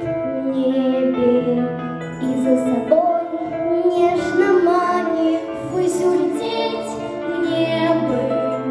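Young girls singing a pop song with vibrato on held notes, over a backing track with steady low accompaniment.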